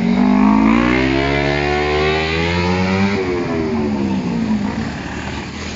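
Motorcycle engine revving, rising in pitch for about three seconds and then falling away.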